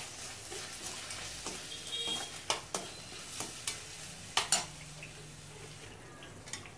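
Tomatoes, shallots and green chillies sizzling as they fry in oil in a stainless steel kadai, stirred with a steel spatula that scrapes and clinks against the pan a few times.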